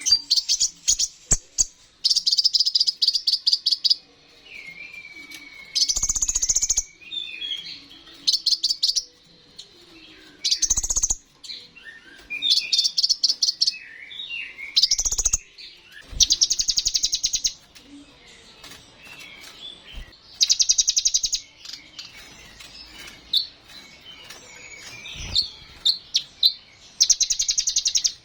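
Kolibri ninja sunbird singing a high, fast song: rapid chattering trills lasting about a second each, repeated every couple of seconds, with thin twittering and short whistled notes between them. A few dull knocks come through, about four times.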